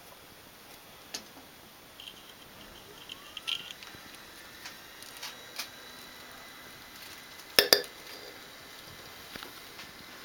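A few light clicks over a faint steady background, then a sharp double click about three-quarters of the way through, the loudest sound here.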